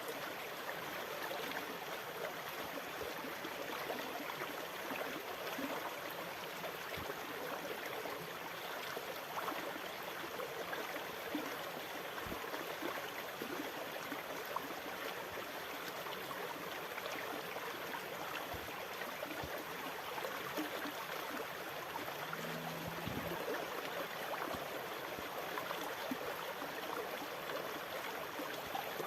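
Water rushing and gurgling steadily, with small scattered splashes and clicks, sold as a relaxing sea sound. A brief faint low hum shows up about three-quarters of the way through.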